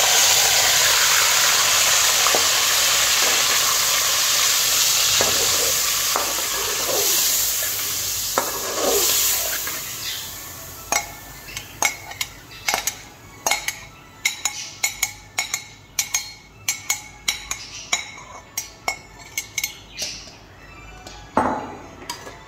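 Marinated chicken sizzling loudly in hot ghee in a metal pot, the hiss slowly dying down over the first half. Then a quick run of sharp clicks and scrapes as a slotted metal spatula stirs the chicken and knocks against the pot.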